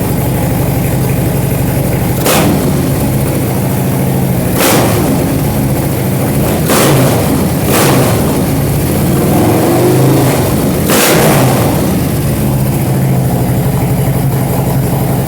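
Harley-Davidson Milwaukee-Eight V-twin with a Stage III cam, Bassani headers and Zombie slip-on exhaust, with no catalytic converter, idling and being blipped on the throttle: about five quick revs over the lumpy idle, one of them a longer rise and fall near the end.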